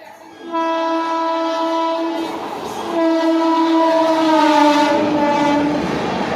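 Indian Railways train horn sounding two blasts, a short one and then a longer one that dips slightly in pitch before it stops, over the running noise of a passing train.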